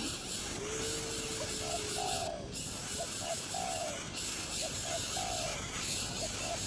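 A bird calling in short, falling notes repeated about every second and a half, with one longer held note about a second in, over a steady high hiss.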